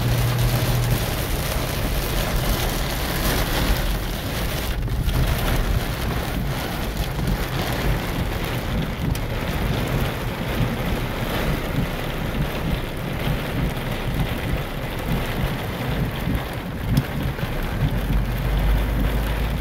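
Heavy rain falling hard and steadily on a car's roof and windows, heard from inside the cabin.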